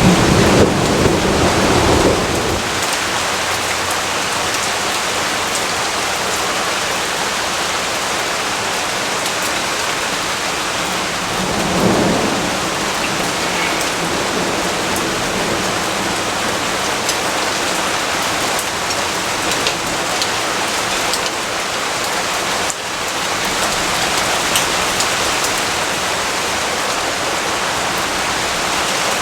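Steady rainfall with two low rolls of thunder, one in the first two seconds and one about twelve seconds in.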